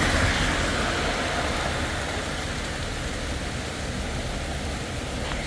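Hailstorm: hail and rain pelting down in a steady, dense hiss, a little louder in the first second or so.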